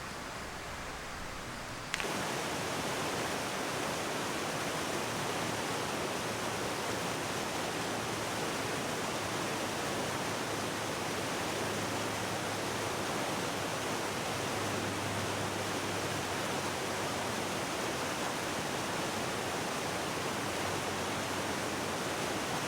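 Stream water rushing steadily over rocks, an even rush with no let-up that jumps louder about two seconds in.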